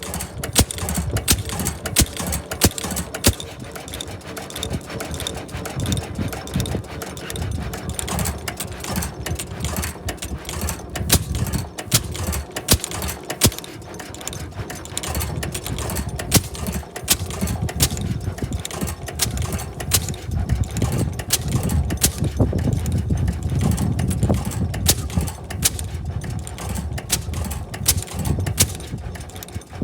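A 6 hp White gasoline engine running, giving many sharp, unevenly spaced pops over a low rumble.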